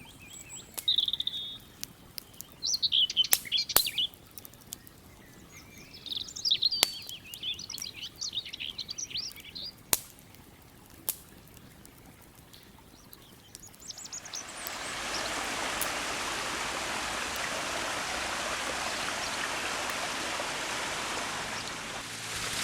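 Small birds chirping and twittering, with a few sharp pops of a crackling campfire. About two-thirds of the way in, a steady rushing hiss of flowing river water comes in and takes over.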